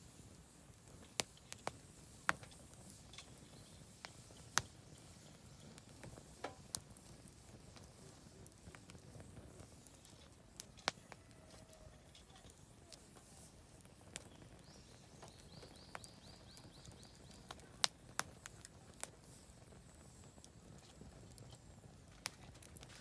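Oak firewood burning in a campfire, crackling with irregular sharp pops over a low, steady rustle. A short trill of repeated high notes from a bird comes through about two-thirds of the way in.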